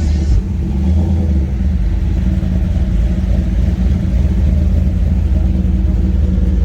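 Car engine running at low revs with a steady, deep exhaust rumble.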